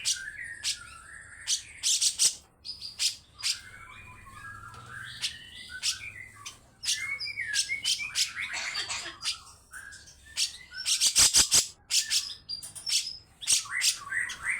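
Cucak jenggot (grey-cheeked bulbul) giving harsh, rasping scolding calls in quick scratchy bursts, mixed with short warbled chattering phrases.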